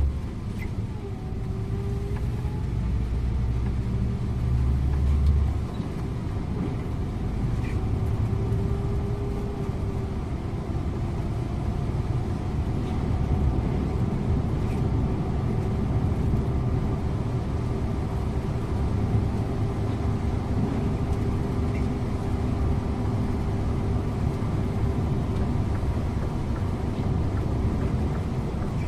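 Scania InterLink bus driving at road speed: a steady engine and road rumble with a constant hum through it. The deepest rumble eases off a few seconds in, then the run continues evenly.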